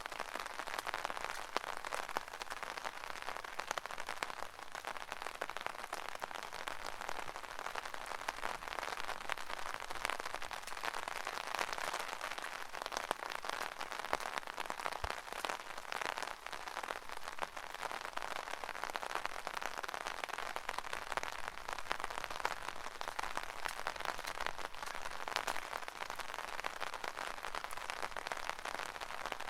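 Rain pattering on an umbrella canopy, a steady dense spatter of drops with no let-up.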